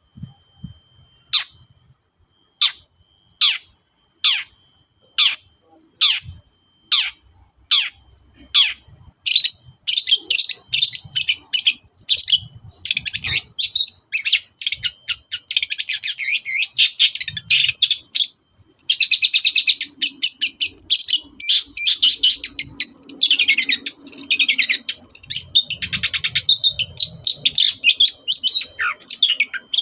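Long-tailed shrike (cendet) singing: first a series of sharp downward-sweeping calls about one a second, then from about nine seconds in a fast, dense chattering song full of mimicked calls of other birds.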